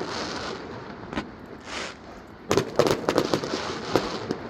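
Fireworks display, shells bursting overhead: a single crack about a second in, then a rapid volley of sharp bangs and crackles about halfway through and another near the end, with a hissing rush between the bursts.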